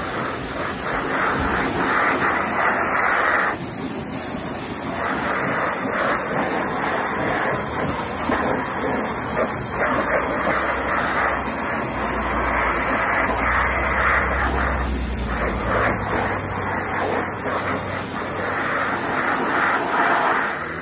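VEVOR electric pressure washer running, its water jet hissing and spattering against a ladder. The spray sound swells and drops as the jet moves, with a brief dip about three and a half seconds in.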